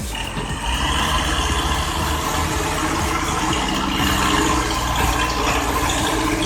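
Heavy engine of a vehicle or logging machine running steadily.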